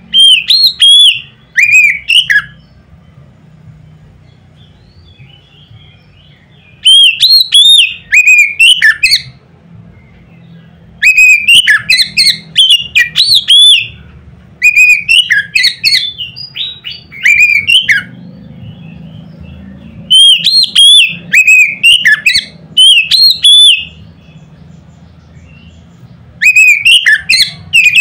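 Oriental magpie-robin (kacer) singing loudly in short bouts of sharp, sliding whistled notes, about six bouts with pauses of a couple of seconds between them, over a faint low hum.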